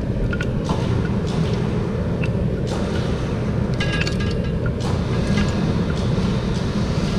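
Steady low machine rumble, with scattered light metallic clinks and knocks, a cluster of them about four seconds in.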